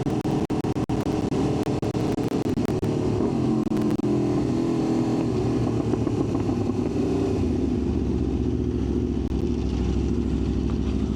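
Aprilia RSV4's V4 engine running steadily, with a deep low hum that grows stronger about seven seconds in.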